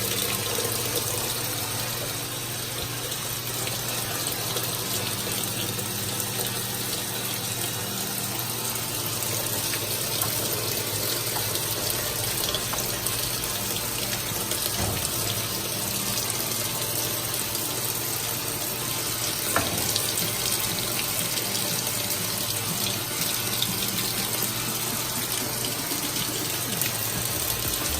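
Washing machine filling with hot water at the start of a cycle: a steady rush of water into the drum, with a low steady hum underneath.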